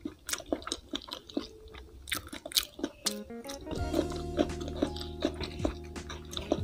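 Close-miked chewing of fried catfish and rice, with many sharp, crisp crunches and mouth clicks. Background music with held tones comes in about halfway through.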